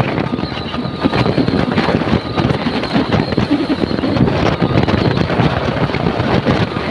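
Wind buffeting the microphone over the steady rumble of a moving vehicle, loud and gusty throughout.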